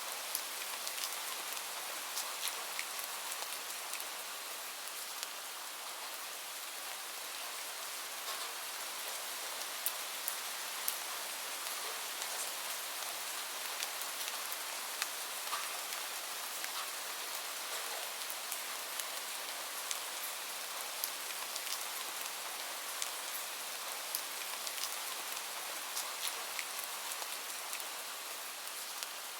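Steady rain hiss, with scattered sharp crackles from a wood fire in a fireplace.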